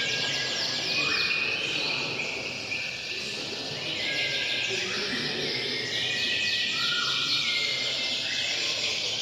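Many domestic canaries singing at once, a dense overlapping chorus of rapid trills, falling sweeps and long held whistled notes.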